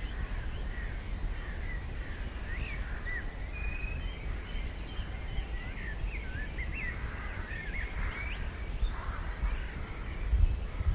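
Small birds chirping and calling with many short, quick notes, over a low rumble that swells near the end.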